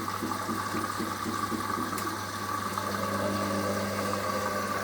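Drain pump of a Hoover HLW585DC washer dryer running steadily, pumping the rinse water out of the drum. A second, lower tone joins the hum about three seconds in.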